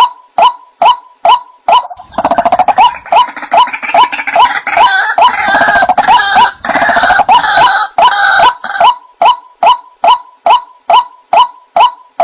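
White-breasted waterhen calling: a steady run of short, repeated notes, about two and a half a second. From about two seconds in until near the end, a louder, busier stretch of overlapping higher calls rises over them, and then the single repeated notes carry on alone.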